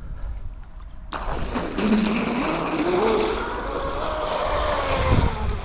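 Pro Boat Blackjack 24 V2 RC catamaran running flat out on a sharpened ABC1816 prop: its brushless motor kicks in about a second in with a rushing noise, its whine climbing quickly in pitch as the boat accelerates, then holding high before it drops off near the end.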